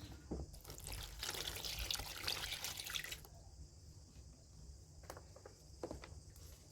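Water running and splashing as soap is rinsed, from about half a second in until it stops at about three seconds. A few scattered drips follow.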